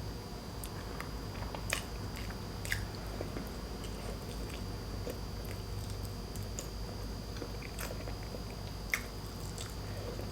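Close-miked mukbang eating: a person chewing a mouthful of boiled pork and rice, with scattered wet mouth clicks and smacks, a few louder ones near two and three seconds in and again near the end, over a steady low hum.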